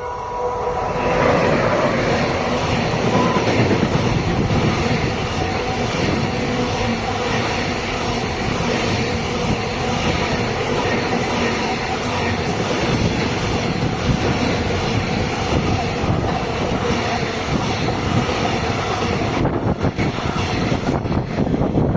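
A train passing close by on the line. The rolling noise builds over about the first second and then stays loud and steady.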